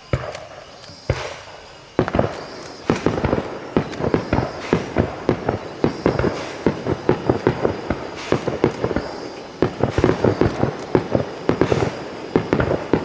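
Fireworks going off: two separate bangs in the first second or so, then from about two seconds in a rapid, irregular run of sharp cracks and bangs.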